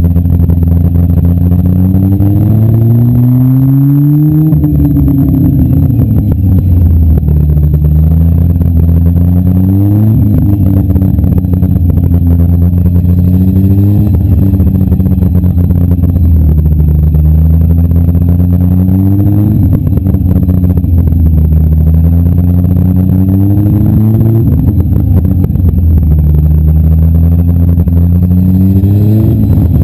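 Demolition derby car's engine running loud and close, revving up again and again: the pitch climbs for a few seconds, then drops back, about six times.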